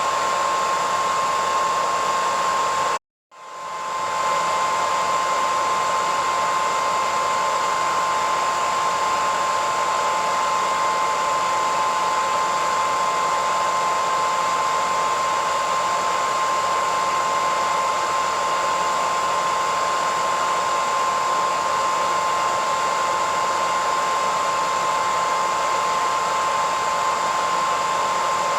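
Hairdryer running steadily: an even rush of air with a strong steady whine. About three seconds in the sound cuts out completely for a moment, then fades back up within a second.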